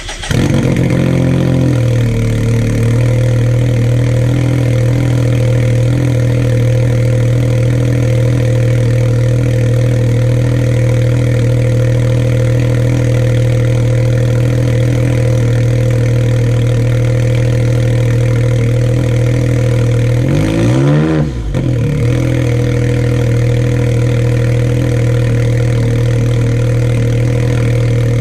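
Can-Am Maverick X3 engine starting for the first time through a new custom exhaust with a bullet muffler, loud. It settles from a higher fast idle after about two seconds into a steady idle. It revs up and back down once about twenty seconds in, and begins to rev again at the end.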